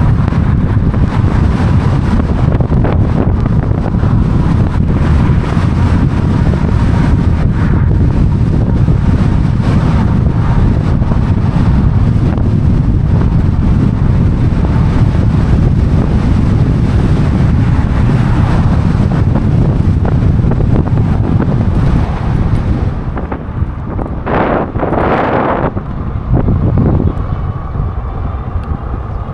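Wind buffeting the microphone of a camera riding on a moving e-bike, a steady low rumble. It eases about three-quarters of the way through, and two short hissing whooshes follow soon after.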